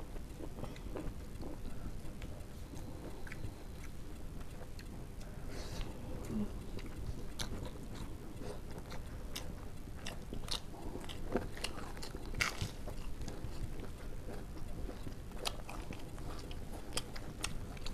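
Close-miked eating sounds of two people eating rice and curry with their hands: wet chewing and many scattered sharp mouth clicks, over a steady low background noise.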